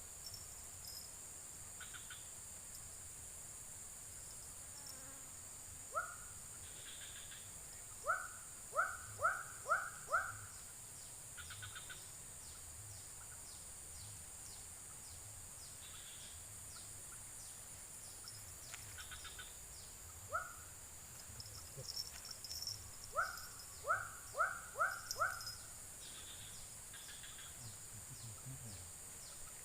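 White-breasted waterhen calls: a single short rising note, then a quick run of five, heard twice, over a steady high cricket trill.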